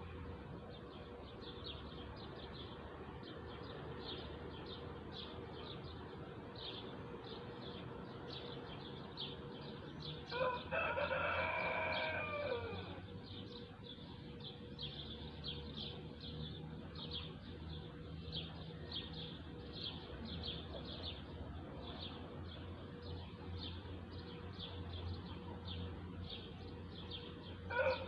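A rooster crowing: one long crow of about two and a half seconds about ten seconds in, and another starting right at the end. Short high chirps repeat a few times a second throughout.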